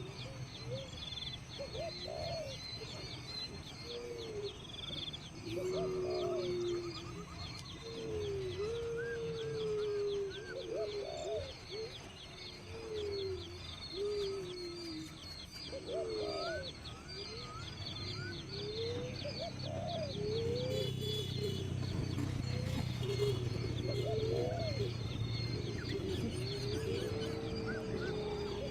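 Birds calling: a dense chorus of short high chirps over repeated lower, swooping calls, with a low hum beneath that grows stronger in the second half.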